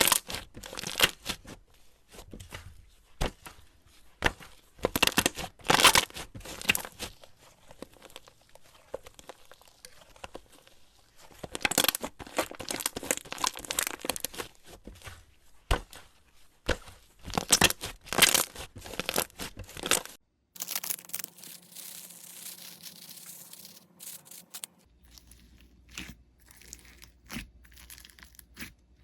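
Slime being squeezed, stretched and pressed by hand, giving bursts of rapid crackling pops and crunches; for the last several seconds it is quieter, with only sparse soft crackles.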